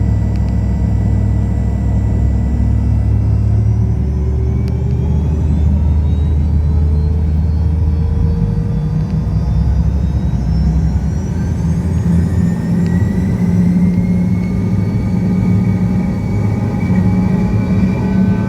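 Fokker 100 jet airliner's Rolls-Royce Tay turbofan engines powering up for takeoff: a steady low rumble with several whines that climb slowly in pitch as thrust builds.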